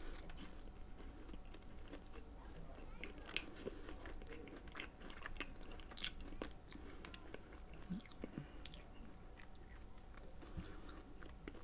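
A bite into a chocolate chip cookie, then faint chewing of it with scattered small mouth clicks.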